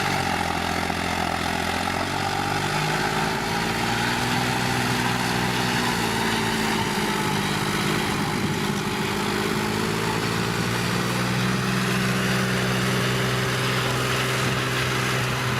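John Deere tractor's diesel engine running steadily under work, its note wavering slightly, with a shift about two and a half seconds in.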